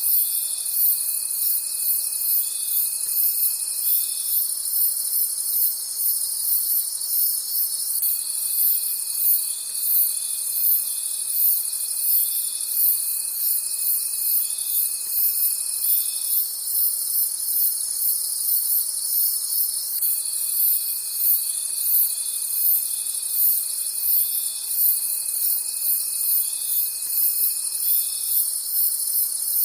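Night chorus of crickets: a dense, high, evenly pulsing chirping that carries on steadily, over a lower steady tone that sounds for several seconds at a time and drops out in between.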